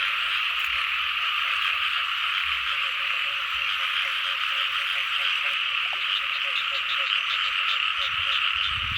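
A dense chorus of frogs calling continuously, with rapid pulsed croaks over a steady high, hissing drone. About six seconds in, a run of quick, higher pulses joins the chorus.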